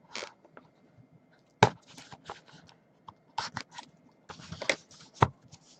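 Hands handling a small cardboard trading-card box and its packaging: scattered sharp taps and clicks with light rustling between, the loudest taps about a second and a half in and near the end.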